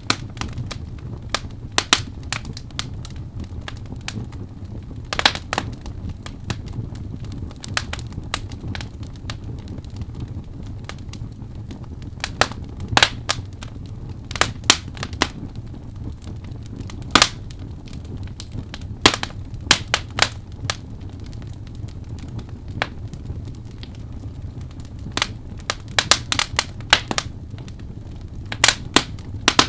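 Wood fire in a fireplace burning and crackling: irregular sharp pops and snaps, some in quick clusters, over a steady low rumble of the flames.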